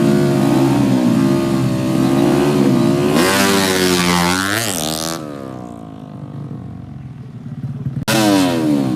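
Drag-racing motorcycle engines revving up and down, then one bike accelerating hard past with its pitch climbing and falling. The sound then drops abruptly to a fading engine, and a loud engine comes back suddenly near the end.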